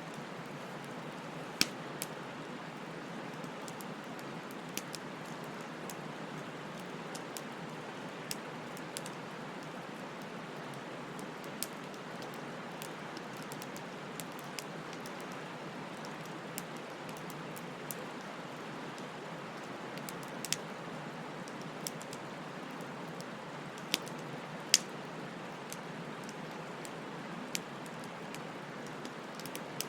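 Wood bonfire burning: a steady soft hiss with sharp crackles and pops at irregular intervals, a few louder ones about two-thirds of the way through.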